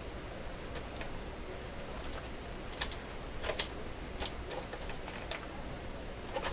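Scattered light clicks and taps of hands handling a small portable radio and its leather case, irregular rather than rhythmic, the strongest about three and a half seconds in.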